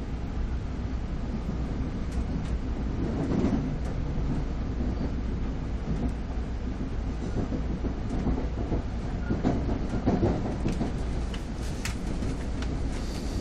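NJ Transit commuter train running at speed, heard from inside a passenger car: a steady low rumble of wheels on rails with scattered clicks and knocks from the track.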